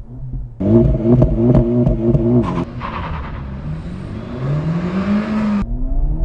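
2024 Acura Integra Type S's 2.0-litre turbocharged four-cylinder, with a triple exhaust that has no rear resonators, launching from a stop. For about two seconds the revs are held at one pitch on launch control with a stuttering note. Then the car pulls away hard, the engine note rising steadily until it breaks off near the end.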